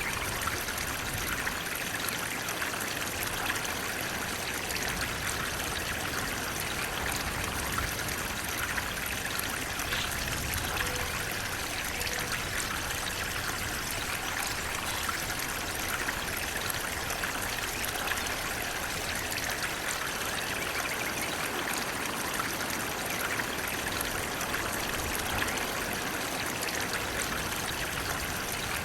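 Running water flowing steadily: an even, unbroken rushing sound with small splashes scattered through it.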